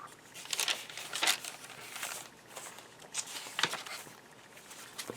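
Paper rustling with soft irregular taps as the pages and paper inserts of a handmade journal are handled and turned.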